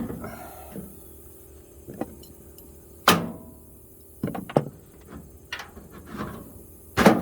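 Metal toolbox drawer clanking and knocking on its slides as it is worked into the cabinet: a string of separate knocks, the loudest about three seconds in and another near the end.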